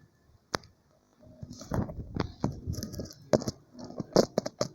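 Bonfire crackling: two sharp pops in the first second, then from just over a second in a denser, irregular run of pops and crackles.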